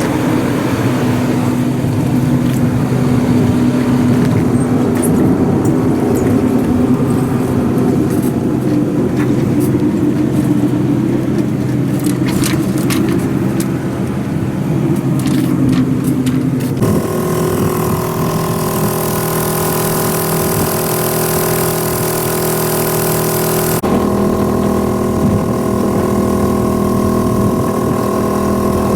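A motor engine running at a steady speed, its tone changing abruptly twice, about seventeen and twenty-four seconds in.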